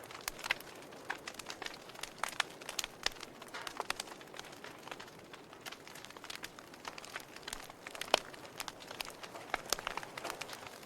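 Wood fire crackling: many irregular sharp pops and snaps over a soft steady hiss, the loudest pop about eight seconds in.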